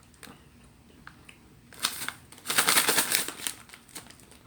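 Plastic packaging of sugar-coated gummy worms crinkling, with a short rustle about two seconds in and a longer burst of crinkling just after.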